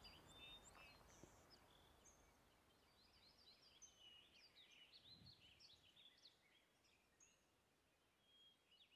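Near silence outdoors, with faint birds chirping: a cluster of short, high chirps between about three and six seconds in, and a few scattered ones around them.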